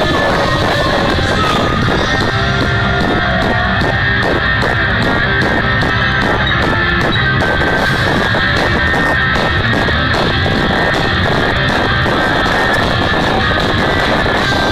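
Loud rock music played on electric guitar with drums keeping a steady beat.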